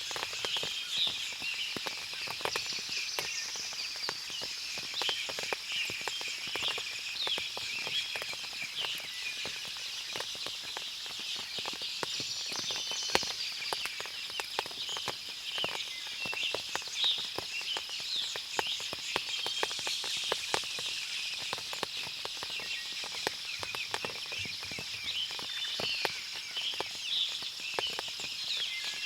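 Forest ambience after rain: many small birds chirping over a steady high insect hum, with frequent short ticks throughout.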